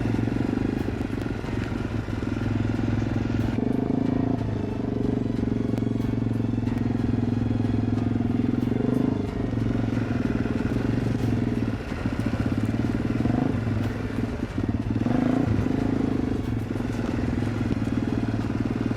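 Motorcycle engine running under way, its pitch dipping and picking up again several times as the throttle changes.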